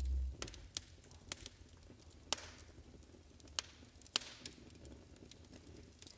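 Wood fire in a fireplace crackling: irregular sharp pops and snaps, the loudest a little over two seconds and about four seconds in, over a faint hiss.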